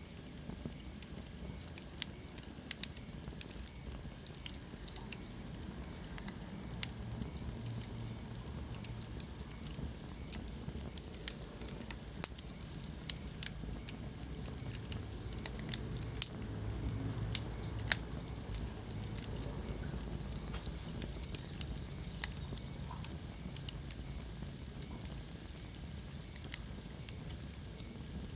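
Wood fire burning in a fireplace: a low steady rumble of flames with irregular crackles and occasional sharper pops.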